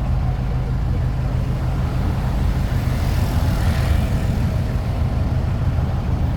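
Engine of a tourist road train running steadily, a low even hum under general street noise.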